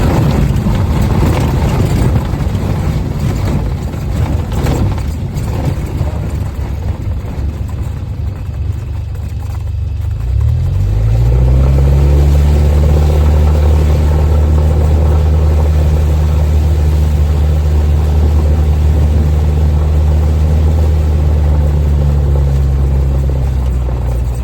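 Light airplane's piston engine and propeller. A rough rumble gives way, about ten seconds in, to an engine note that rises in pitch and then holds as a steady drone, heard inside the cabin.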